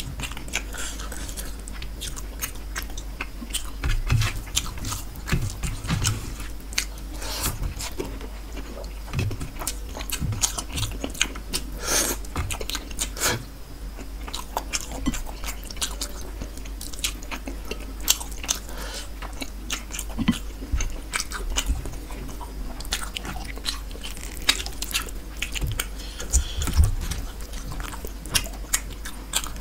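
Close-up eating sounds of a person chewing a mouthful of rohu fish curry and rice eaten by hand: wet chewing, lip smacks and crunchy bites in an irregular stream of short clicks.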